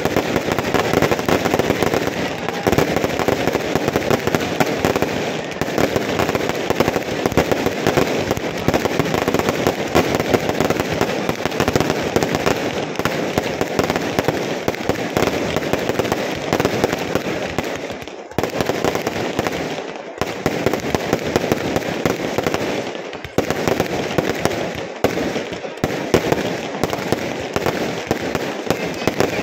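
Fireworks going off in rapid succession: a dense, unbroken crackle of bangs and pops, with a few brief lulls in the second half.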